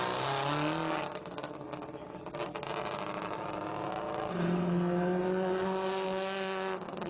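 Rally car engine at high revs, rising and then dropping off about a second in, with a few sharp knocks in the quieter stretch that follows. The engine comes back on and holds a steady high note until near the end.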